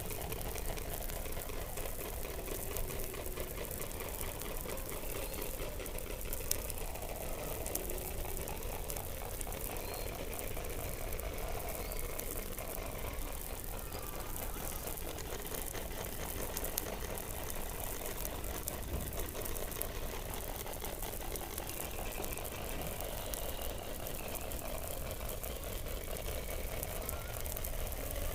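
Underwater sound from beneath the Antarctic ice, picked up by a hydrophone: a steady dense crackling, with wavering mid-pitched tones that rise and fall and faint high chirps now and then. A single sharper click comes about six seconds in.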